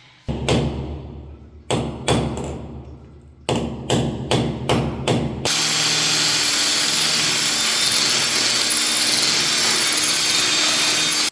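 About eleven sharp knocks, like tool strikes, in the first five seconds. Then a power drill runs steadily at full speed for about six seconds and cuts off suddenly.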